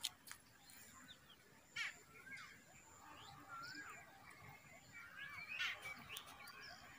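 Faint birds calling: scattered short chirps and whistled notes that slide up and down, with a few sharper calls around two seconds in and again near six seconds.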